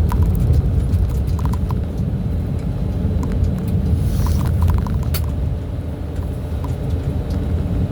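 Steady low rumble of a truck's engine and road noise heard from the cab while driving, with small rattling clicks in short clusters now and then.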